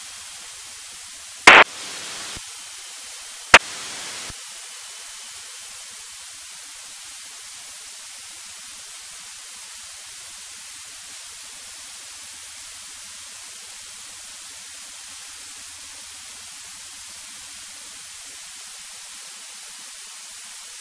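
Steady hiss of a cockpit intercom audio feed, broken by two sharp clicks about two seconds apart, each followed by a brief rise in the hiss.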